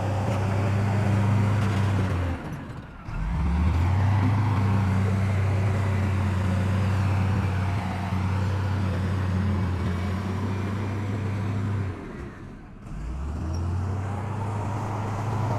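Heavy diesel engine of earthmoving machinery running steadily. The sound drops away briefly twice, about three seconds in and again about twelve seconds in, and picks up again each time.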